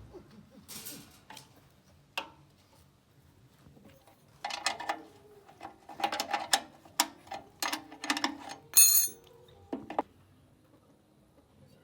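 Metal parts and hand tools clinking and knocking during engine repair work, with a run of sharp, ringing strikes in the middle and the loudest just before the end.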